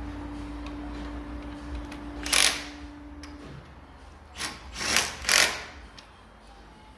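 A small handheld power tool runs steadily for about three and a half seconds, then gives four short, noisy bursts, each a fraction of a second long, as bolts are driven in during reassembly.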